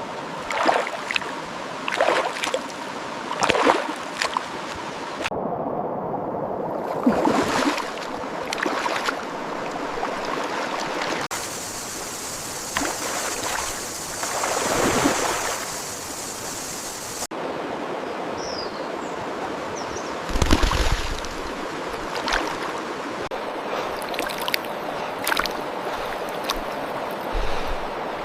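Rushing stream water with irregular splashes and rustles. The sound changes abruptly several times.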